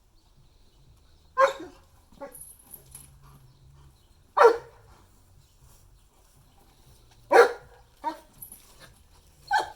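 Dog barking: single loud barks about three seconds apart, with softer, shorter barks in between.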